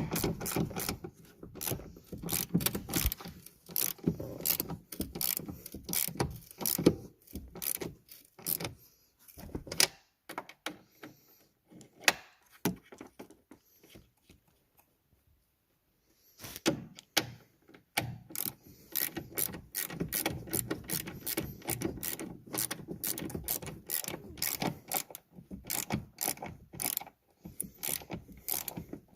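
Hand ratchet wrench clicking in quick runs of strokes, as bolts are worked during a shock absorber replacement, with a pause of a couple of seconds about halfway.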